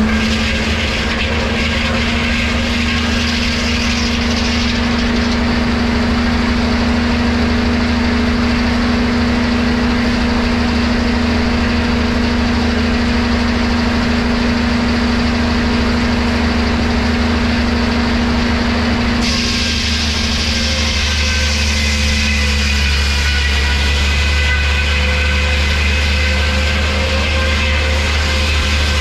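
Sawmill machinery running steadily with a low engine hum and a steady mid-pitched tone. About two-thirds of the way through, the higher part of the sound changes abruptly and steady higher whines come in.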